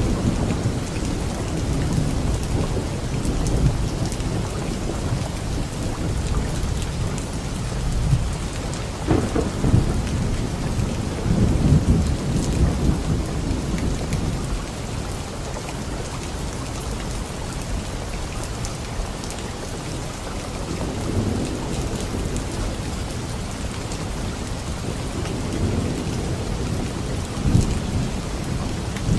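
Steady rain falling during a thunderstorm, with low rolling rumbles of thunder that swell a few times, strongest about a third of the way in and again near the end.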